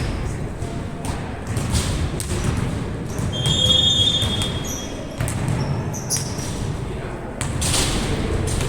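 Ball game sounds: a ball bouncing with repeated thuds over a steady low rumble and background voices, with a brief high tone about three and a half seconds in.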